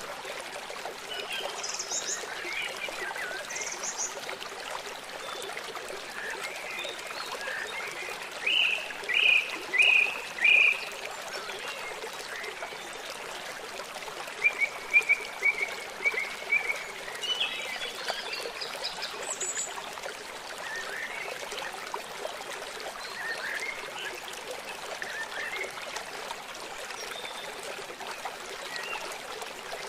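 Steady rush of flowing river water, with several birds calling and chirping over it; a louder run of four calls comes about nine to eleven seconds in, and a quick trill follows a few seconds later.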